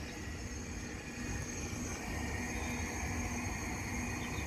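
Class 375 electric multiple-unit train running at the level crossing, a low rumble with a steady thin whine that grows slightly about a second and a half in. Under it a level crossing alarm sounds a low tone pulsing about twice a second.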